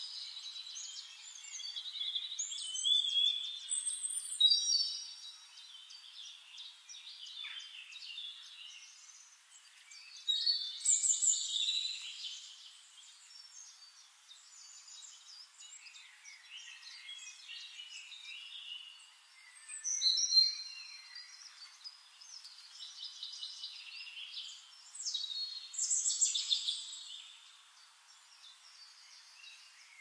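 Small birds chirping and singing in several bursts of quick, high calls and trills, with quieter chirping in between.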